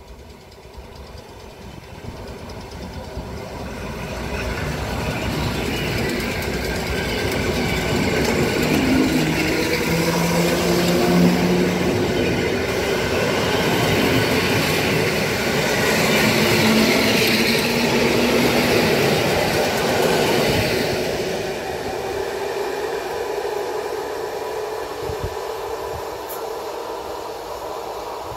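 Two coupled EN57 electric multiple units passing close by on the track, wheels running over the rails. It grows louder over the first several seconds, is loudest with the train alongside, then fades as it moves away.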